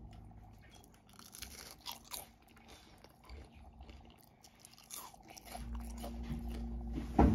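Crunching and chewing of a crispy twice-fried green plantain (tostón) being eaten, in scattered irregular crackly crunches. A single louder knock comes near the end.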